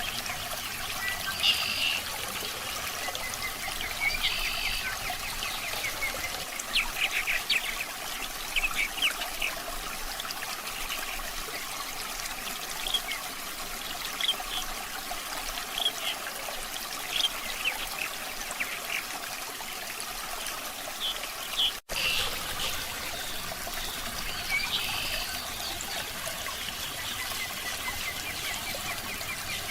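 Water trickling steadily, with short bird chirps scattered over it. The sound cuts out for an instant about two-thirds of the way through.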